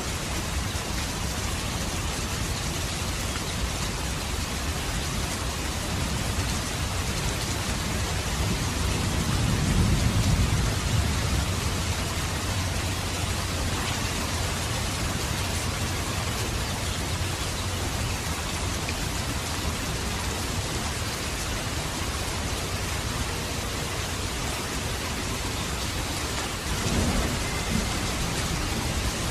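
Steady rain falling, with a low rumble of distant thunder swelling and fading about a third of the way in. A short low thud comes near the end.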